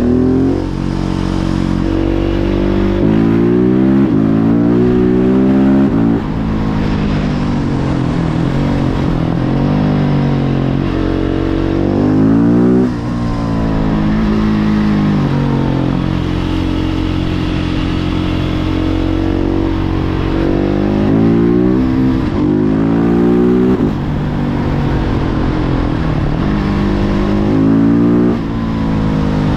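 Husqvarna 701 Supermoto's single-cylinder engine through a Remus Blackhawk exhaust, ridden through the gears. The revs climb and drop at each upshift several times, with steadier cruising stretches in between.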